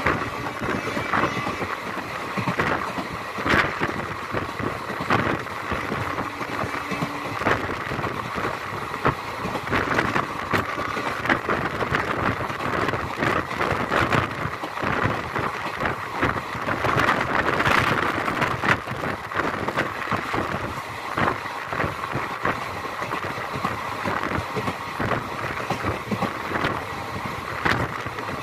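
Express train running, heard from inside a passenger coach: a steady rumble and rush of running noise with frequent rattles and clatter from the coach and wheels.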